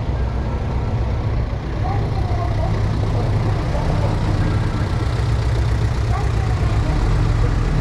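Heavy diesel earthmoving machinery running with a steady low rumble, growing a little louder toward the end.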